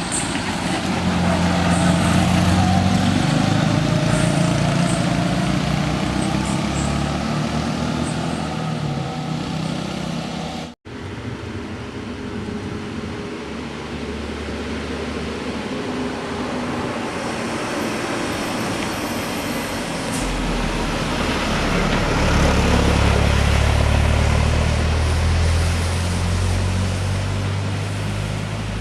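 Heavy road vehicles passing close by with their engines running. The sound cuts off abruptly about eleven seconds in, then another heavy vehicle comes up and passes, loudest a little after twenty seconds.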